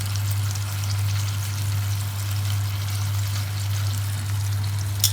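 Sausages sizzling and crackling steadily in a frying pan of hot oil, over a steady low hum. Two sharp clicks come near the end.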